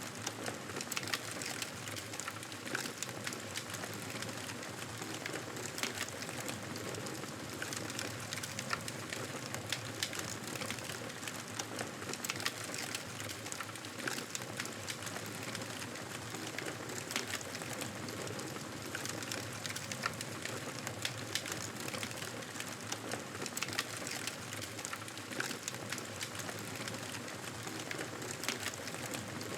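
Wood fire burning with steady crackling: many small, sharp pops and snaps over a constant hiss.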